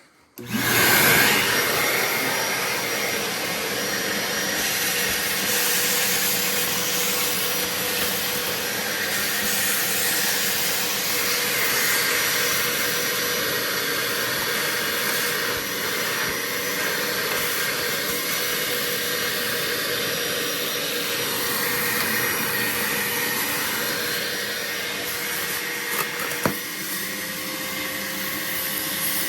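BAUER 3-gallon, 3 peak HP wet/dry shop vacuum switched on about half a second in and running steadily: a loud rush of air with a faint steady motor whine. A short click near the end.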